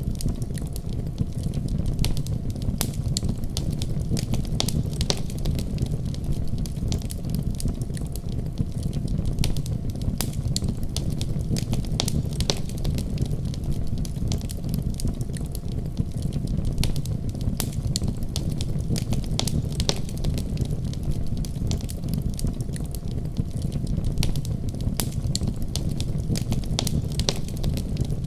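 Fire in a fireplace crackling, with irregular sharp pops over a steady low rumble of the flames.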